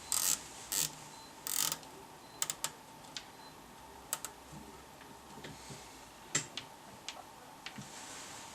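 Irregular sharp clicks and a few short scraping rustles, like small hard parts and tools being handled on a workbench, over a faint steady high tone.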